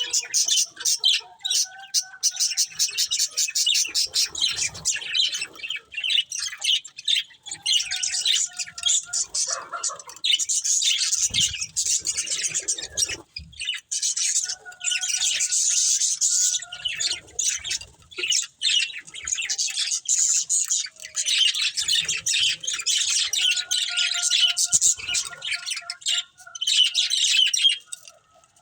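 A pair of budgerigars chirping and chattering in a dense, fast run of high chirps and warbles, with a couple of brief pauses.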